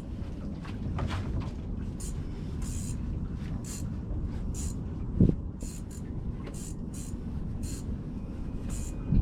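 Fishing reel being cranked as a hooked fish is reeled in, with irregular light clicking over a steady low rumble of the boat on the water. A single sharp thump about five seconds in.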